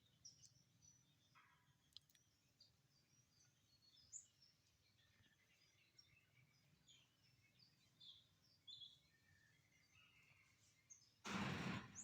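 Faint birds chirping in scattered short calls, with a brief loud burst of noise, like a rustle or a bump, near the end.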